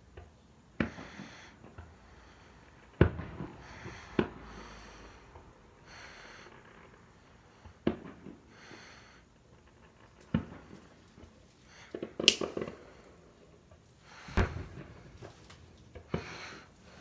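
Fireworks going off: about seven sharp bangs at irregular intervals, the loudest about twelve seconds in, several followed by a brief hissing crackle.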